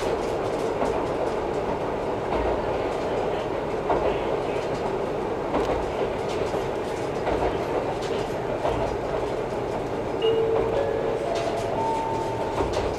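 Running noise heard inside a JR Central KiHa 11-100 diesel railcar: a steady rumble, with the wheels clicking over rail joints every second or two. Near the end, a short chime of tones stepping upward in pitch sounds, the kind that introduces an onboard announcement.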